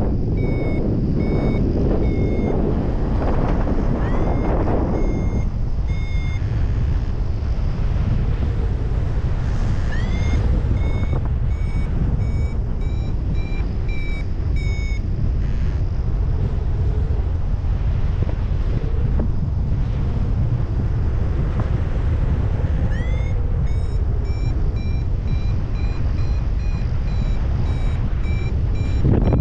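Paragliding variometer beeping its climb tone in short bursts of about two beeps a second, each run opening with a rising chirp; the beeps come in three spells as the glider finds lift. Loud wind rumble on the microphone lies under it throughout.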